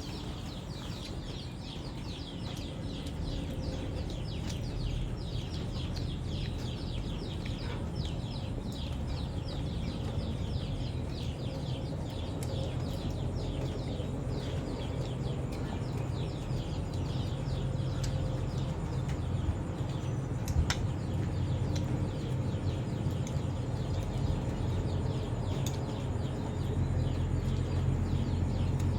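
A crowd of small birds chirping rapidly, many short downward chirps overlapping, thinning out after about halfway, over a steady low rumble that grows louder near the end.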